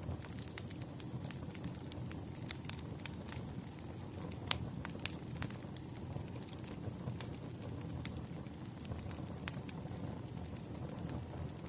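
Firewood burning with a steady low rumble and irregular sharp crackles and pops, the loudest pop about four and a half seconds in.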